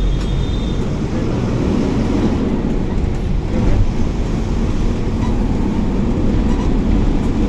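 Steady low rumble of a bus's engine and tyres on the road, heard from inside the moving bus.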